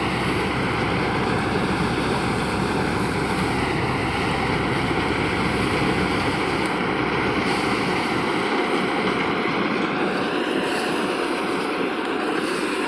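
Kuldeep combine harvester running steadily, a loud, dense, even machine noise.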